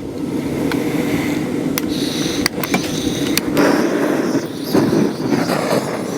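Electric forge blower fan running steadily with its slide valve shut, so no air yet reaches the tuyere. A few sharp crackles come from the burning kindling.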